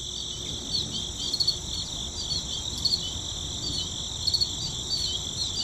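High, steady insect chirring with small chirps repeating through it.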